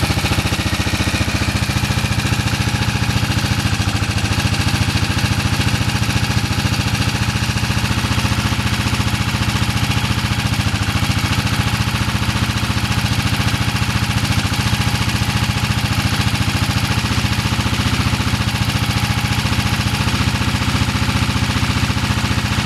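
1971 BSA B50SS's 500 cc single-cylinder four-stroke engine running steadily with no revving, its even firing beat thumping throughout. The engine is freshly overhauled and has just finished its 500 km run-in.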